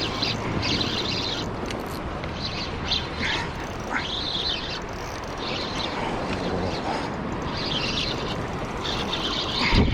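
Short bird calls repeating about once a second over a steady rushing background.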